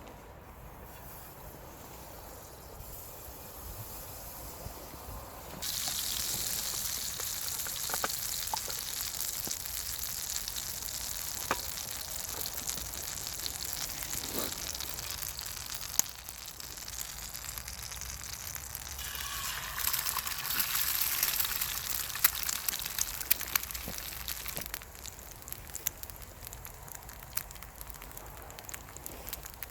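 Food sizzling as it fries over a campfire, with scattered crackling pops. The sizzle starts suddenly several seconds in, swells for a few seconds later on, then falls back to a quieter crackle near the end.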